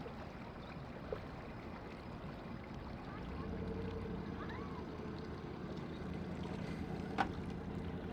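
An engine running steadily at a low pitch, its hum coming in about three seconds in, with a sharp knock near the end.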